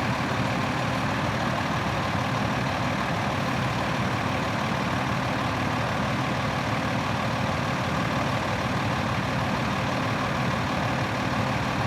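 2012 Freightliner M2-106 bucket truck's diesel engine idling steadily.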